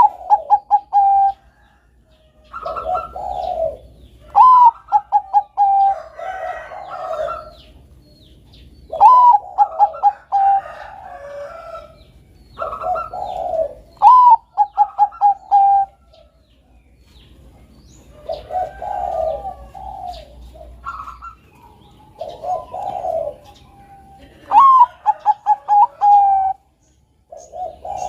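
Zebra dove (perkutut, Bangkok strain) cooing its song over and over. About every four to five seconds comes a phrase that opens on a rising note and breaks into a quick run of short, clipped coos, with lower coo notes in between.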